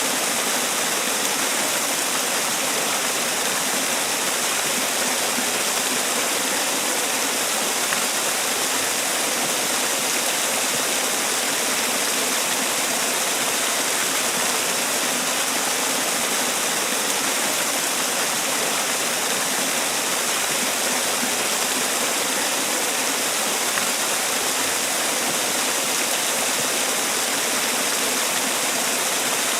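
Man-made waterfall: water falling and splashing in a steady, unbroken rush, bright and hissy.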